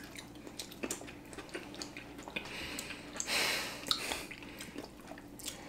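Quiet eating sounds: people chewing fried chicken, with many small wet mouth clicks and smacks. A brief hiss comes about three and a half seconds in.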